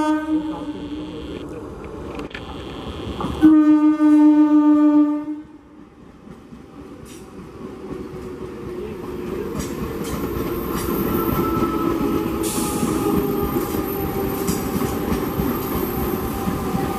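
South Eastern Railway EMU local train sounding its horn: a short blast at the start, then a longer, louder one lasting nearly two seconds. The train then runs past, its wheel-on-rail rumble building steadily with scattered clicks over the rail joints.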